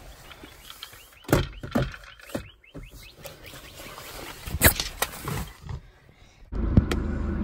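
Clicks and knocks of things being handled inside a BMW's cabin, then about six and a half seconds in the car starts with a sudden steady hum that keeps running.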